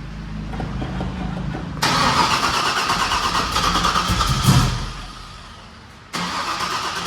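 Supercharged V8 of a Trailblazer SS fired up in the shop: after a low steady running sound it catches loudly about two seconds in, climbs in revs, then dies away as if stalling, and suddenly picks up again near the end. It is struggling to keep running after a fuel-injector swap.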